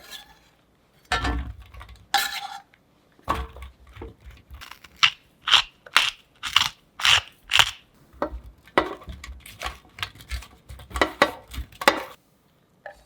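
Kitchen work: a series of sharp clacks and clinks of utensils against dishes, coming about twice a second through the middle and stopping shortly before the end.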